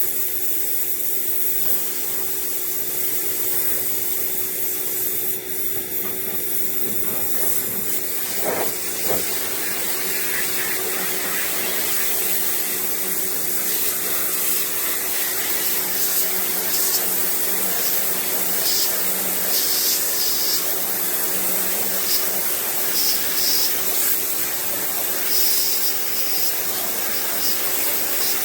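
Ferrex electric pressure washer running: the motor holds a steady hum under the continuous hiss of the water jet, which spatters and shifts in tone as the spray moves over the truck's surfaces.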